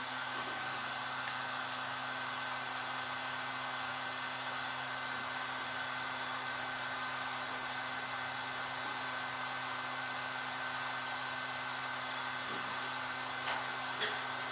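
Heat gun blowing steadily, with a constant motor hum and a faint steady whine, warming the phone's glass to soften the screen adhesive. A couple of sharp clicks near the end.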